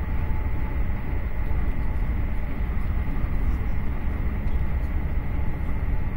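Passenger train running at speed, heard from inside the carriage: a steady low rumble of wheels on rails with a faint, steady high tone above it.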